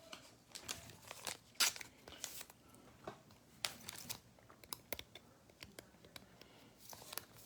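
Faint crinkling and tearing of trading card packs and cards being handled, in scattered short rustles and clicks.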